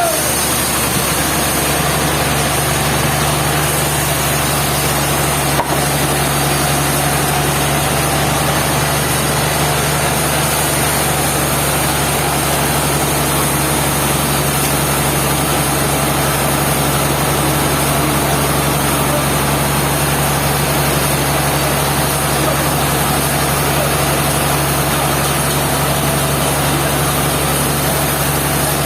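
Sawmill machinery running steadily: a constant engine hum under an even, unchanging noise, with a brief click about six seconds in.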